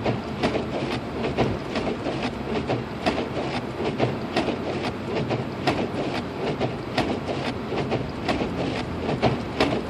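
Lexus IS250 AWD driving through a snowstorm, heard from inside the cabin: steady tyre and road noise with frequent short clicks and knocks.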